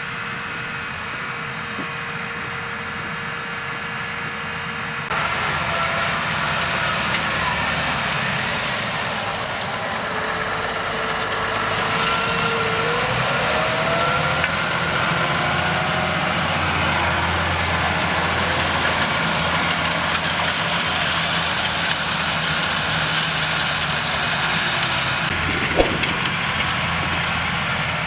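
Farm tractor engine running steadily, getting louder about five seconds in, with its pitch drifting up and down for a while, and a single sharp knock near the end.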